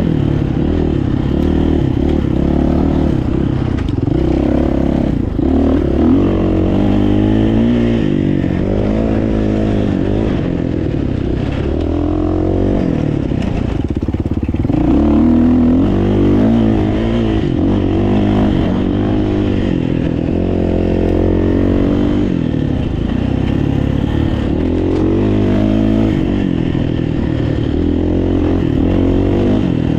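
Dirt bike engine being ridden off-road, its pitch climbing and dropping again and again as the rider works the throttle and gears.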